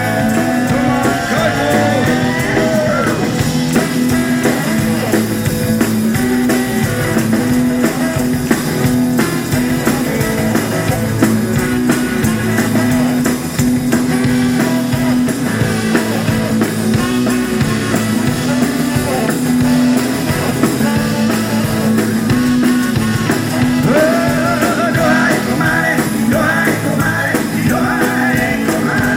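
Live rock and roll band playing an instrumental passage: electric guitar over bass and a steady drum-kit beat.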